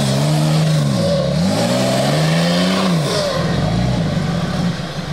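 Off-road 4x4's engine revving hard on a trial section. Its pitch drops sharply twice and climbs again, then the engine runs lower and steadier near the end.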